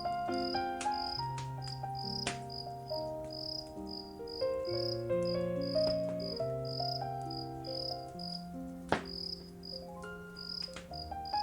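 A cricket chirping steadily about twice a second over slow, soft music of held notes, with occasional sharp crackles from a burning wood fire. The loudest pop comes about nine seconds in.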